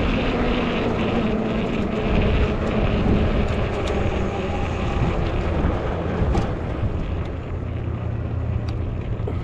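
Fat-tire electric bike riding at speed: a steady hum from the motor and fat tyres on pavement, with wind rushing over the microphone.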